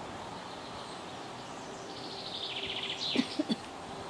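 A bird singing a rapid high trill about halfway through, over a steady outdoor background hiss, followed by a few short clicks.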